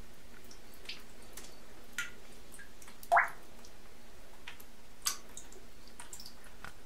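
Scattered water drips and small plops in a tub of water, the loudest a single rising plink about three seconds in.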